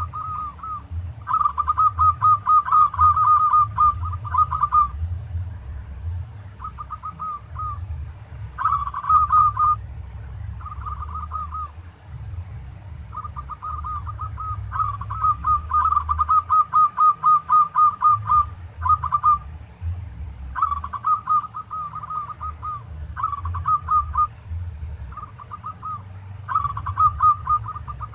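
Zebra dove (perkutut) cooing: repeated phrases of rapid staccato notes, each lasting from about a second to a few seconds with short pauses between, over a steady low rumble.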